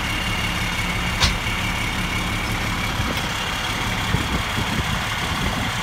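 2000 Pierce rescue truck's diesel engine idling with a steady low hum, with a single sharp click about a second in.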